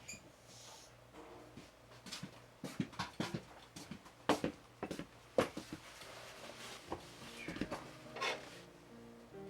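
Scattered light knocks and clicks at irregular moments in a small room.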